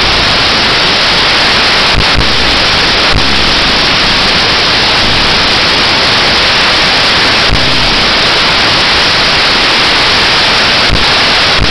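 Loud, even static hiss with no engine note or voice in it. It sets in and cuts off abruptly, typical of a badly overloaded or glitching mobile phone recording.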